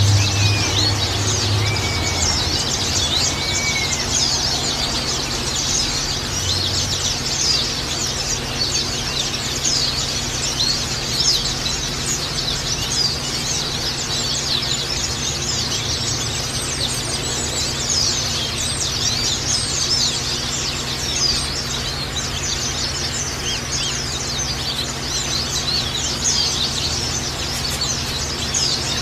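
Dense chorus of white-eyes (pleci) twittering, with many quick, high chirps overlapping without pause. A steady low hum runs underneath.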